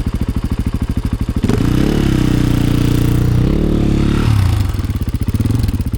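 A 450 cc single-cylinder four-stroke snowbike engine, freshly started, idling, then revved up and held there for about two and a half seconds before dropping back to idle. The throttle is blipped to keep the just-started engine running.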